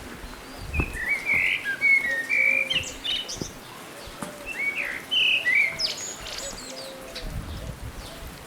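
A songbird singing two quick warbled phrases of varied chirping notes, the first about a second in and the second about five seconds in, over a softer run of short, lower repeated notes.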